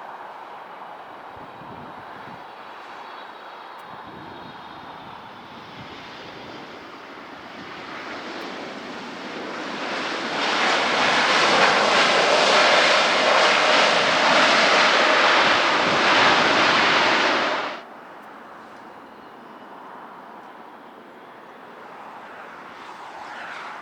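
Jet airliner engine noise building over several seconds to a loud, steady rush, then cutting off suddenly about eighteen seconds in.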